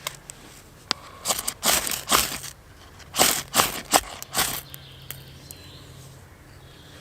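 Ferro rod (fire steel) struck with a scraper onto resinous fatwood to throw sparks: about seven sharp rasping scrapes in two quick bursts, the start of a fire being lit.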